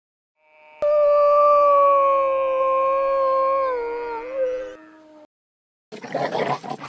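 A canine howl: one long, steady, clear call that dips slightly in pitch near its end before fading out.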